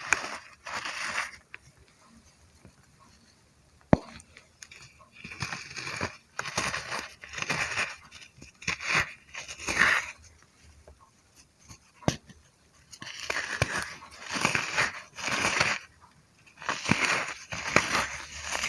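Brittle chunks crunching and crumbling in repeated bursts of about a second each, with short pauses between, and a sharp single snap about four seconds in and another about twelve seconds in.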